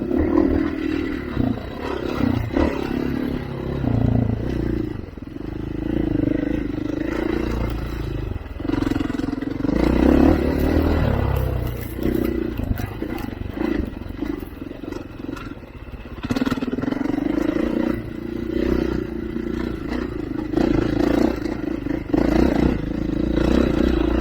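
Off-road vehicle engine working over rough terrain, revving up and easing off again and again, with some clattering underneath.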